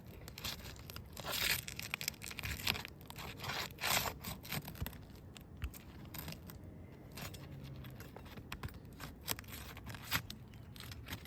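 Vogeler roof shingles being pried up by hand, their sealed-down strips tearing loose with scraping and crinkling in uneven bursts; the loudest come about one and a half and four seconds in.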